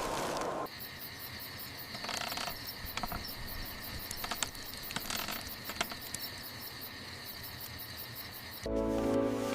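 A steady high-pitched chirring like insects, with scattered faint clicks. Soft music comes in near the end.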